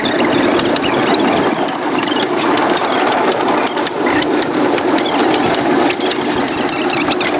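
An old train running, with a steady mechanical rattle and a dense patter of small clicks from the wheels and carriage.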